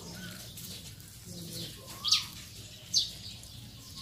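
Birds calling: short, sharp chirps falling in pitch, about a second apart, with a softer, lower whistle that rises and falls.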